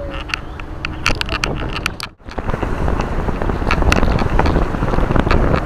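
A few scattered clicks. Then, after an abrupt cut about two seconds in, the loud, steady rumble of a moving vehicle, with wind buffeting the microphone.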